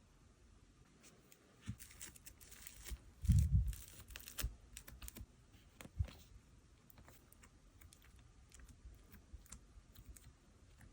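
Slime being pressed and worked by hand: a run of small clicking pops and squishes, with the loudest, a low squelch, about three seconds in.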